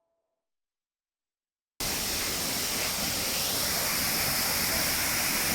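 Silence, then about two seconds in the steady roar of a 17-metre waterfall cuts in abruptly and runs on evenly.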